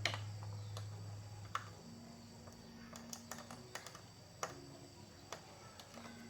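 Scattered light clicks and taps, irregular and about half a second to a second apart, over a faint steady low hum.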